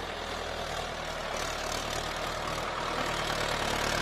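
Tractor engine running steadily with a low hum, growing gradually louder.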